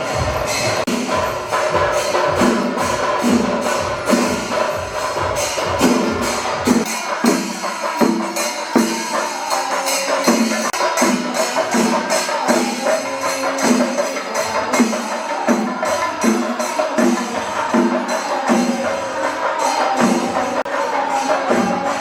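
Percussion ensemble of drums and clashing cymbals playing a fast, dense rhythm. A deep low beat drops out about seven seconds in.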